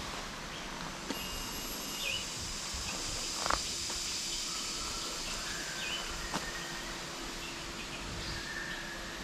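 Tropical garden ambience: a steady high insect drone with short, thin bird whistles now and then, and a brief knock about three and a half seconds in.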